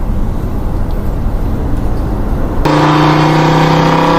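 Remote-control car running: a rough rumbling motor and tyre noise. About two and a half seconds in, this cuts to a steady, even-pitched motor whine.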